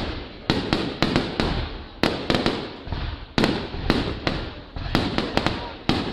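Fireworks shells bursting overhead in quick succession: sharp bangs about two to three a second, each trailing off into a rumbling echo.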